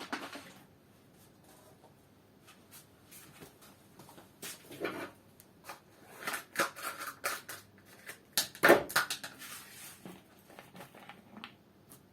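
Handling noises at a workbench: a run of irregular clicks, knocks and rustles as objects are picked up and set down, busiest in the second half with the loudest knock about two thirds of the way through.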